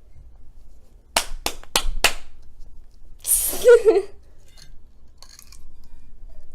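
Glass jam jar being knocked four times in quick succession to shake thick jam out into the mixing bowl, followed by a short scraping noise.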